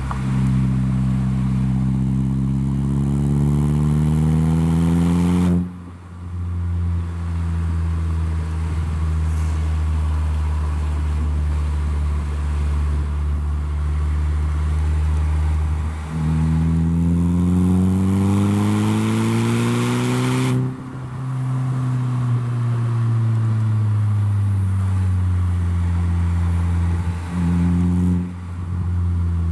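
Saab 9-3 engine running through a handmade stainless-steel full exhaust system with a valve. Its note climbs in pitch under acceleration, drops off abruptly about five seconds in, holds steady for a long stretch, climbs again and drops abruptly once more, then holds steady.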